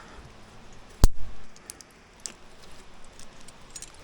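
One sharp knock about a second in, with a brief low thump after it, then faint scattered metallic clinks of climbing gear as the climber weights his rappel setup for a function check.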